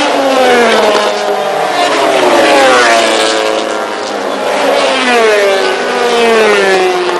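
MotoGP racing motorcycle engines at high revs, their pitch sweeping down and back up several times.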